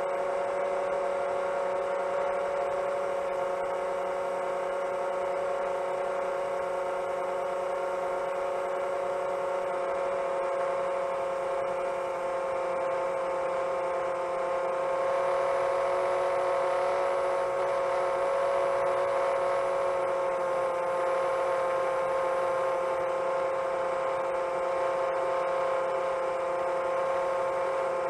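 Brushless motors and propellers of a 7-inch long-range FPV quadcopter, a steady whine at cruise throttle, getting a little louder about halfway through.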